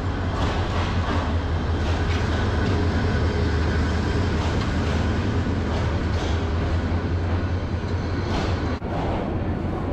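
Bangladesh Railway diesel locomotive and its passenger coaches pulling into a station platform. A steady low engine drone runs under the rolling train noise, with a few clacks of wheels over the rails.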